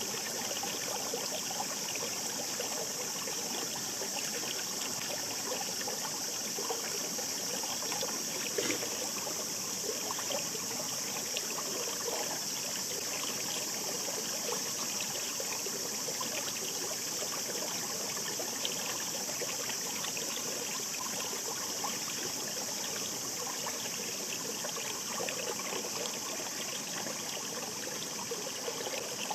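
Shallow river babbling steadily: a continuous rushing hiss of flowing water, flecked with many small splashes and trickles.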